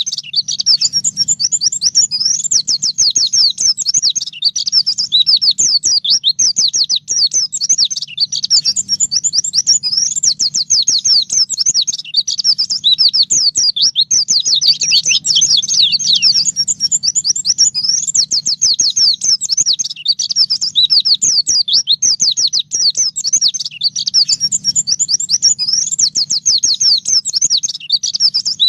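White-eye (pleci) singing a long, continuous, fast twittering song of rapid sweeping high notes, with only brief breaks.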